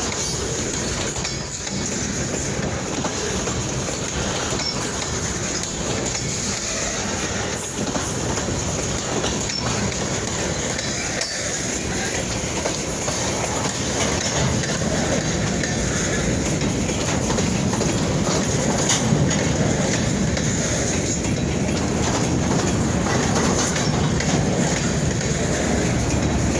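Freight train rolling past: a steady rumble and clatter of steel wheels on rail, growing a little louder about halfway through.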